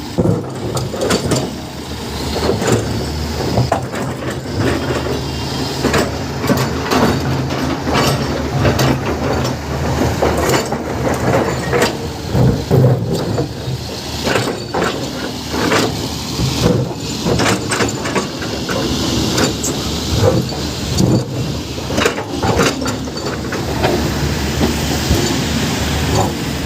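Heavy diesel machinery running steadily under load, with frequent knocks and rattles throughout.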